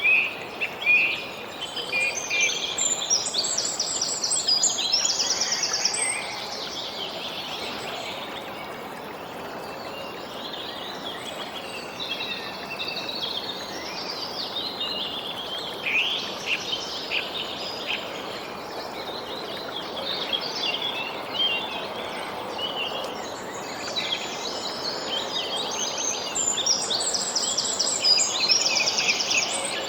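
Songbirds chirping and singing in quick trills over a steady background hiss. The calls are busiest at the start and again near the end.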